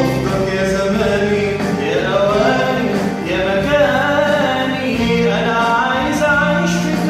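A male voice singing an Arabic pop song over instrumental backing. The voice comes in about two seconds in with ornamented, wavering lines over sustained accompaniment.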